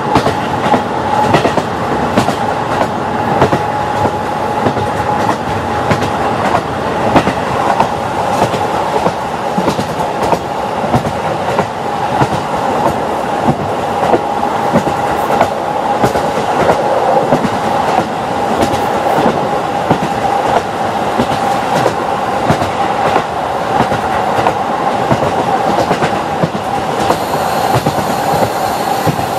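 KiHa 40 diesel railcar running along jointed track, heard from inside the car: the clickety-clack of the wheels over rail joints rides on a steady engine and running drone with a steady whine.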